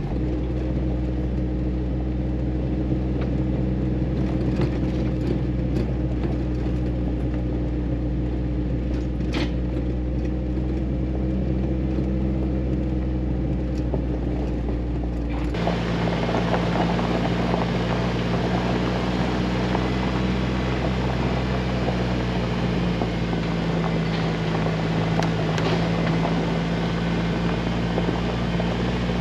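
Jeep Wrangler engine running steadily while driving, with tyre and road noise. About halfway through, a much louder hiss and rattle of road noise comes in suddenly and stays.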